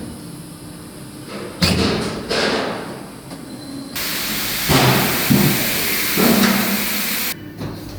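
Factory work noise: two knocks, then a loud steady hiss that starts suddenly about four seconds in and cuts off sharply about three seconds later, with a few thuds during it.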